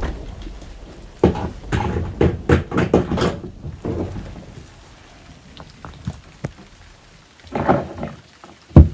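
Plastic toy stable doors being pushed shut and handled: a run of irregular light clicks and knocks, then quieter handling, with a louder knock near the end.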